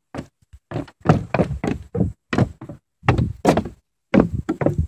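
Footsteps in boots going down a flight of stairs, a steady run of heavy knocking steps about three a second.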